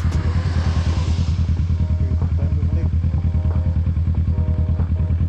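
A Kawasaki Z650's parallel-twin engine running at a steady speed, with a steady, pulsing low note. Background music with a melody plays over it.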